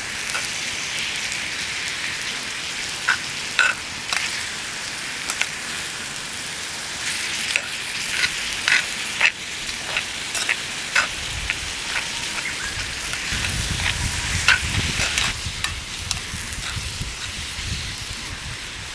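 Food frying in a pan over a campfire: a steady sizzle with frequent sharp spattering pops. A low rumble joins it about halfway through.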